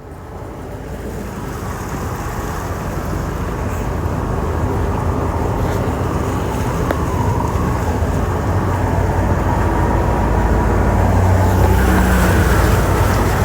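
Motor vehicle running with road noise, growing steadily louder, with a low rumble that strengthens in the last few seconds.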